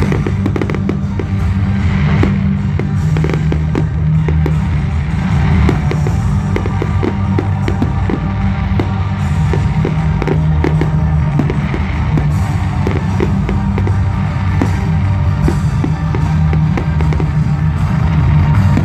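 Fireworks going off in quick succession, many sharp bangs and crackles, over loud music with a heavy bass.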